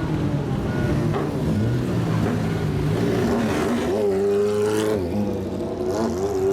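Modified car exhaust running loud, with the engine revved up and back down about two-thirds of the way through and blipped again near the end.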